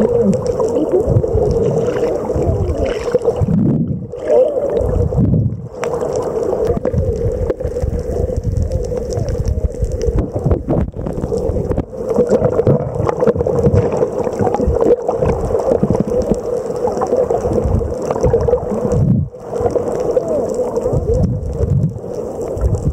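Boat engine humming steadily, with water gurgling and rushing around it; the sound briefly drops out a few times.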